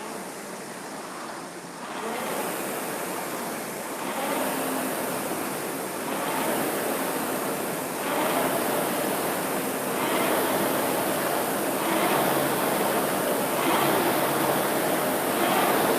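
Concept2 Model E indoor rower's air-resistance flywheel whooshing with each rowing stroke, a swell about every two seconds that grows louder as the pace builds.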